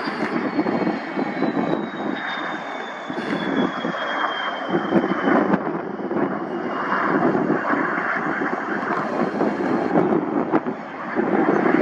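Aeroplane flying past with a steady, rushing engine noise. A high whine falls slowly in pitch over the first several seconds as it goes by.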